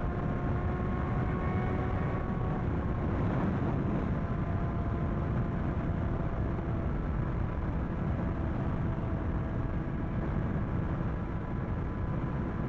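Sport bike engine running at a steady cruise under heavy wind rush, its engine note holding nearly level with only a slight dip and recovery in pitch.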